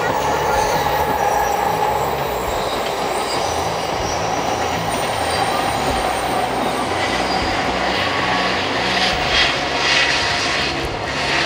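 Trains running past on the lines below: a Shinkansen passes, then a freight train. It is a steady, loud rushing noise with a thin, high wheel tone that fades over the first few seconds and wheel clatter near the end.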